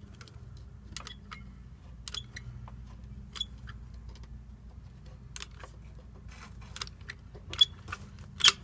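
Caulking gun worked by hand while caulk is run around a dryer vent flange: irregular sharp clicks and knocks from the gun, the two loudest near the end, over a low steady hum.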